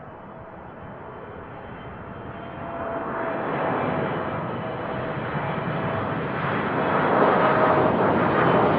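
Jet airliner engines growing steadily louder as the aircraft approaches, a broad rushing noise with a faint steady whine.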